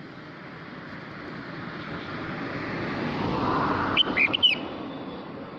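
Red-whiskered bulbul giving a quick cluster of short, sharp whistled notes about four seconds in, over a rushing noise that swells and then fades.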